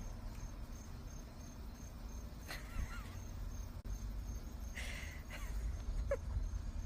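Cricket chirping steadily, about three high chirps a second, over a low rumble. A few faint short squeaks come about two and a half, five and six seconds in.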